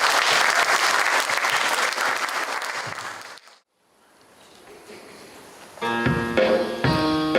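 Audience applauding, cut off suddenly about three and a half seconds in. After a quiet gap, a school jazz band starts playing a blues near the end, with brass and drums.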